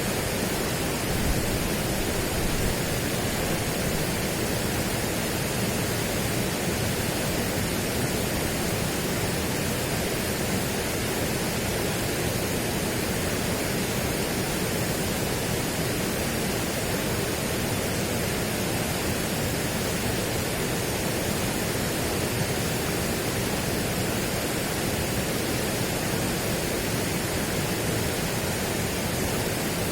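Steady, unchanging rushing noise spread evenly from deep to high pitches, with no separate events.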